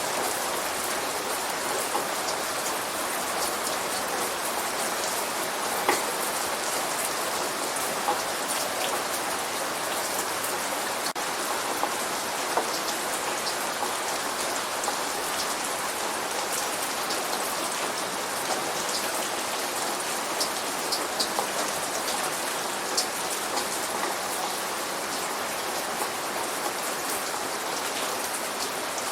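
Steady light rain falling, an even hiss with scattered individual drops ticking sharply on a surface.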